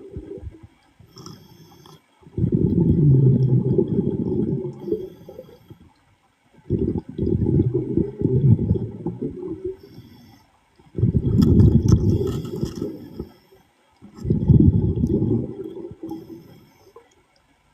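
Underwater breathing of a diver: exhaled air bubbles rumbling in bursts of two to three seconds, about every four seconds, with short quiet gaps between breaths.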